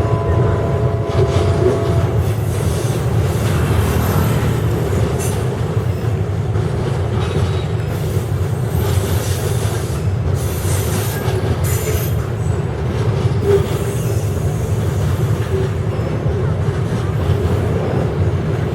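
Freight train's wagons rolling past on the track with a steady low rumble, and brief high wheel squeals about halfway through.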